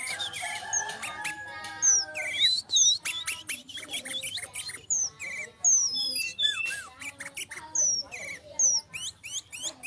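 Sooty-headed bulbuls (kutilang) calling busily: a rapid run of short, clear whistled notes that swoop up and down, several overlapping as if more than one bird is answering. A lower, drawn-out sound sits underneath during the first two seconds.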